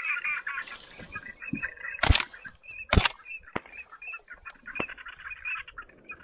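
A crowd of birds calling in short, rapidly repeated notes. Two sharp, loud cracks come about two and three seconds in.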